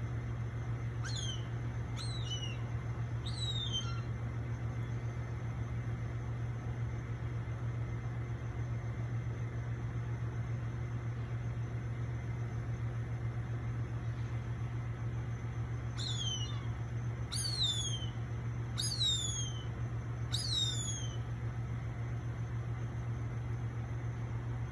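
A bird's short, high whistled calls, each sliding sharply down in pitch: three in the first few seconds, then four more, louder, about two-thirds of the way through. A steady low hum runs underneath.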